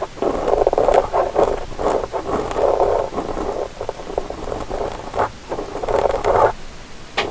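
Ear-cleaning tool scraping and rubbing in a microphone's ear for ASMR: close, crackly scratching in strokes of about one to two seconds with short breaks between them.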